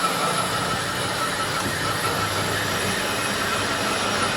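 Workshop machinery running steadily, a dense even noise with a faint high whine and a low hum.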